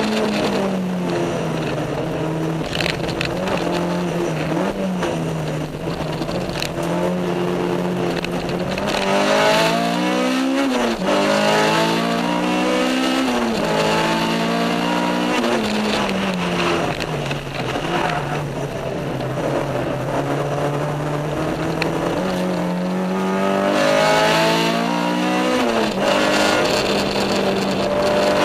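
Honda Civic EG's swapped-in K20 four-cylinder engine, with aftermarket intake, header and cat-back exhaust, heard from inside the cabin under hard track driving. It holds steady revs, then climbs in pitch and drops sharply several times as it changes gear, and holds steady again before one more climb and drop near the end.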